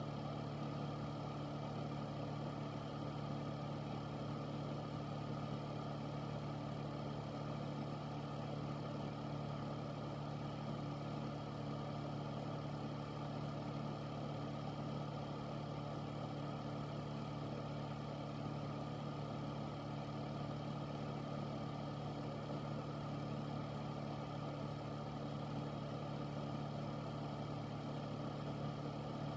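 Air filter fan running steadily: a constant low motor hum under an even rush of moving air, with no change in speed.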